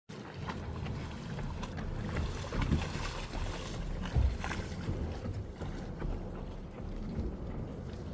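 Wind rumbling on the microphone, with louder gusts near three and four seconds in, over a light scatter of small clicks and splashes from the stream.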